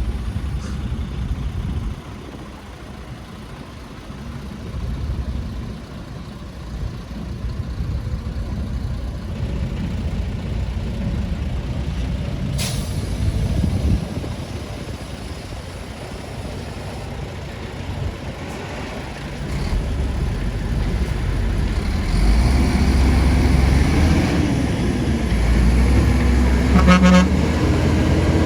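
Heavy diesel construction machinery running with a low, steady rumble that grows louder about three-quarters of the way through. A short horn toot sounds near the end.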